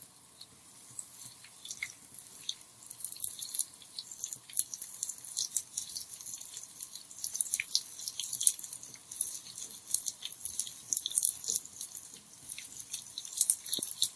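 Hot oil crackling and spitting as small stuffed qatayef deep-fry, a dense patter of sharp pops that thickens about two seconds in.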